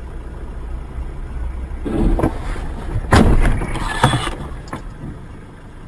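Steady low road rumble from a moving car, then loud bangs and crunching about two, three and four seconds in: a car crash.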